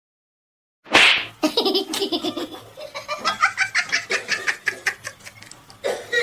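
Laughter in quick repeated pulses, starting about a second in with a sudden loud burst.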